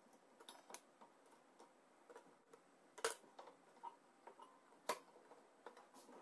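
Faint scattered clicks and light taps over a quiet hiss, with two sharper clicks about three and five seconds in.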